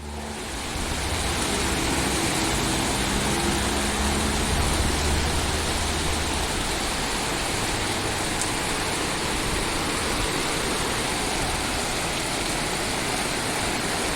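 Steady roar of traffic in a city soundscape recording, with a vehicle engine rumbling low through the first several seconds.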